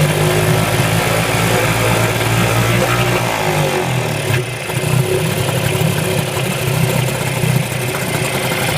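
Eska 7.5 two-stroke outboard motor running cold, with its choke being taken off. Its speed sags and the sound dips for a moment about three and a half seconds in, then it picks up and runs on steadily.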